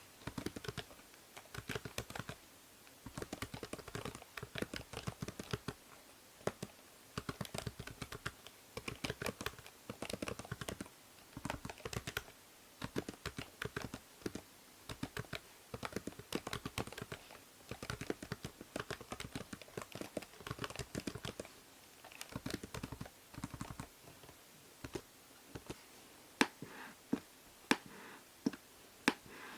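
Computer keyboard typing in quick bursts of keystrokes with short pauses between them, and a few louder single key strikes near the end. A steady faint hiss from the binaural microphone lies underneath.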